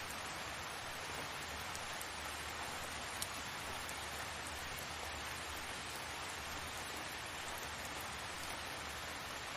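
Steady rain falling, an even hiss with faint scattered drop ticks; one sharper tick about three seconds in.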